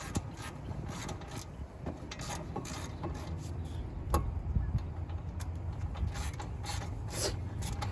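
Socket wrench working the 15 mm brake caliper bolts as they are tightened: irregular metallic clicks and scraping over a low background hum.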